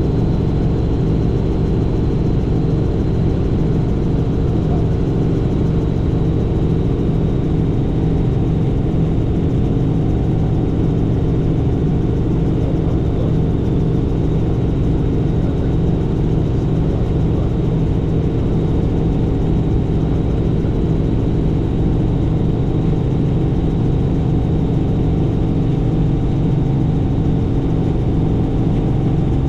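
Helicopter in flight: its engine and rotor running at a steady drone, with a faint high whine above it.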